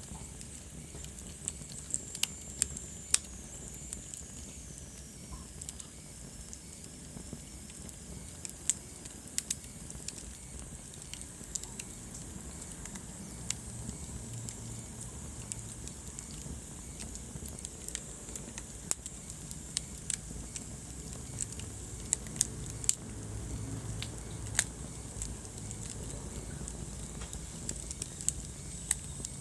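Wood fire burning in a fireplace: a steady low rumble of flame with irregular sharp crackles and pops throughout. A faint high whistle slides down in pitch in the first few seconds.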